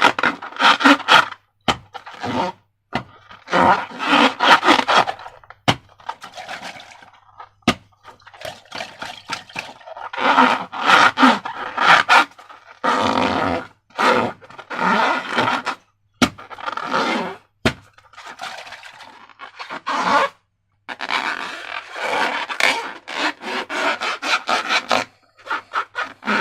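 Slime being squeezed and kneaded by hand with a rubber balloon: squelching and rubbing in repeated bursts of a second or two, with short sharp clicks in the gaps.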